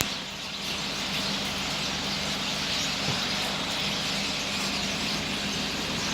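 A large flock of small birds chattering together as they settle to roost for the night, a dense continuous din, over a steady low hum.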